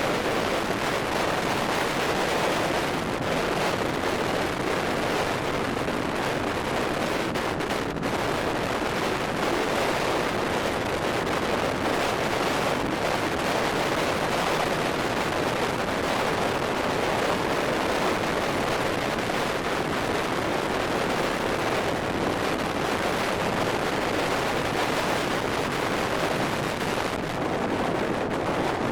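Steady rushing noise of strong storm wind, without let-up.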